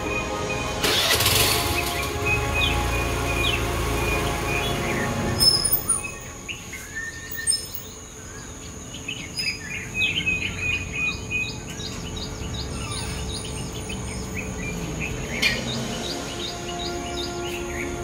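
Birds chirping in short, high calls: a run of repeated calls in the first few seconds, then a busier flurry of chirps around the middle, over background music.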